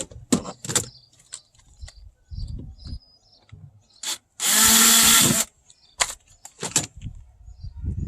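Power drill run in one burst of about a second near the middle, driving a screw in to mount a car door speaker. Scattered clicks and knocks of handling come before and after it.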